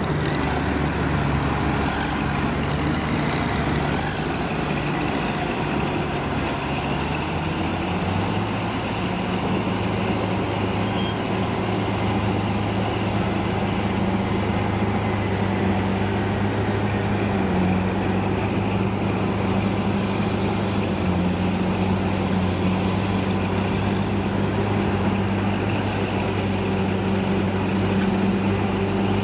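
Heavy vehicle's engine running steadily, its revs stepping up slightly about eight seconds in and then holding.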